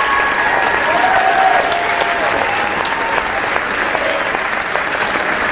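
A crowd applauding: dense, continuous clapping that holds steady without a break.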